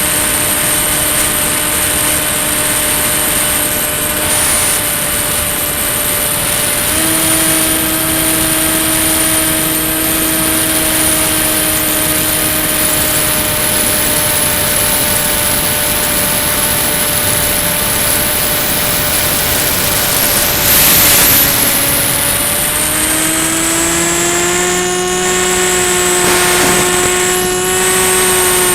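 Electric motor and propeller of a Ranger EX FPV model plane running steadily in flight, with a steady pitched hum and a high whine. The pitch steps up about a quarter of the way in, dips briefly with a short rush of noise about three-quarters through, then rises and holds.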